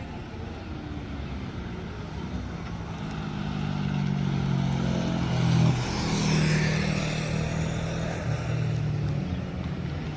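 A motorcycle engine comes up and passes close by, loudest about six seconds in, then runs on more quietly as it moves away.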